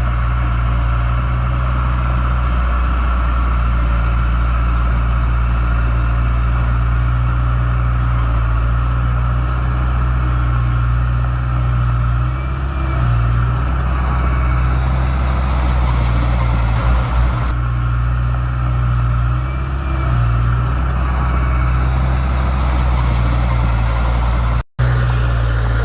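Heavy construction-machine diesel engine running steadily with a deep, even hum. The sound cuts out for an instant near the end.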